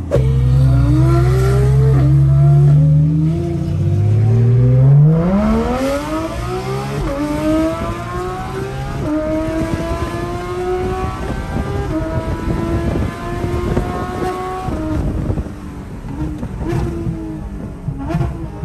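Porsche 911 GT3 RS's naturally aspirated flat-six accelerating through the gears, heard from inside the cabin. Its pitch climbs and drops sharply at each upshift several times, then holds fairly steady at cruising revs, with road and wind noise.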